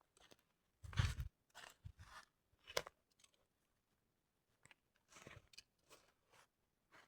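Footsteps crunching on the forest floor, an uneven series of steps, with a heavier low thump about a second in.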